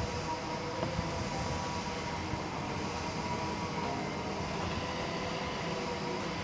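Docklands Light Railway train running: a steady rumble with a faint steady whine.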